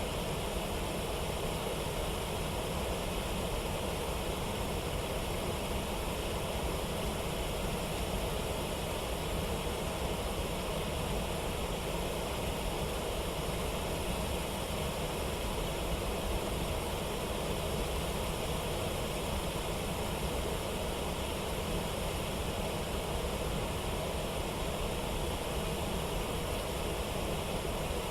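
Steady rush of a river waterfall and its rapids, an even roar of water that does not change.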